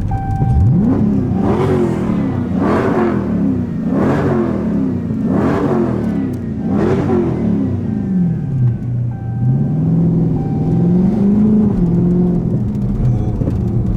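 Dodge Scat Pack's 392 HEMI V8 being revved: five quick throttle blips, each climbing and dropping back, then a slower, gentler rise and fall in revs.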